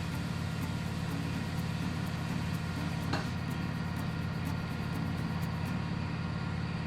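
Steady mechanical hum holding one pitch, with a single sharp click about three seconds in.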